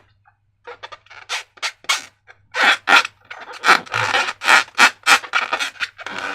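Slime being worked by hand: a quick, irregular run of short squishing and rubbing noises, starting just under a second in.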